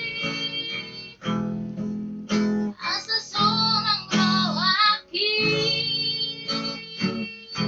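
High-pitched singing over strummed acoustic guitar, with a wavering held note about halfway through.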